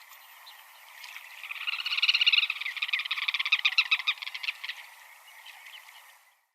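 Turnstone calling: a fast chattering rattle of short, high notes that builds to its loudest about two seconds in and fades out near the end.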